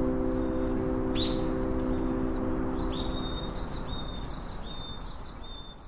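Birds chirping: a rising call about a second in, then a run of short chirps in the second half, over a steady rushing hiss. A held chord of background music dies away in the first half, and everything fades out at the end.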